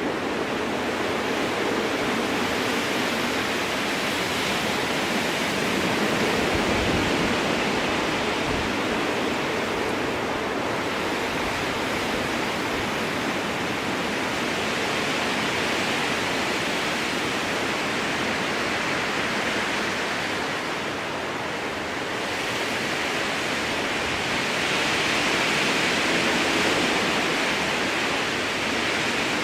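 Strong wind rushing through a spruce forest, a steady roar of air in the branches that swells in gusts about a quarter of the way in and again near the end.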